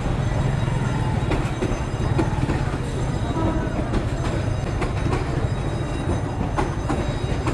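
A train passing over a road level crossing, a steady low rumble of the train running on the rails.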